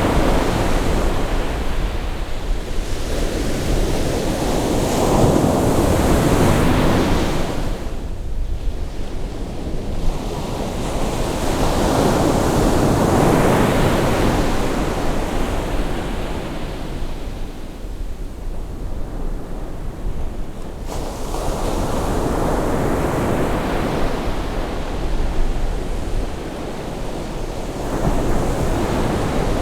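Sea waves breaking and washing on the shore as the tide comes in, the surf swelling and falling back in slow surges every several seconds, with wind on the microphone adding a low rumble.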